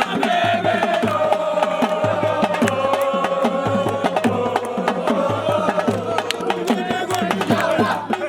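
Live drumming with many fast strokes and a low beat about twice a second, under a voice holding a long chanted note that sags slightly in pitch.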